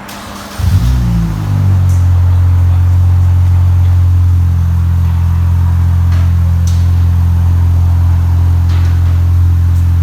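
Mini's engine starting through its newly fitted exhaust: it catches with a brief rev flare about half a second in that falls away within a second, then settles into a steady, loud idle.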